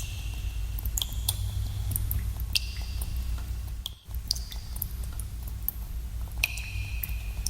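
Water drops falling irregularly into pools in a cave, each landing as a sharp plink with a short high ringing tone, over a steady low rumble. The level drops briefly about four seconds in.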